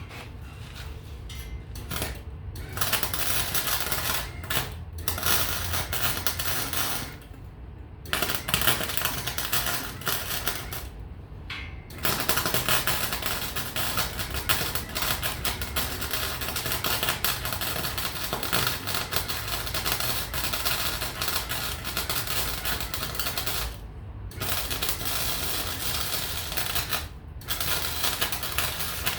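Electric arc welding: the arc crackles densely and steadily in long runs. It stops briefly several times, about 7, 11, 24 and 27 seconds in, between welds.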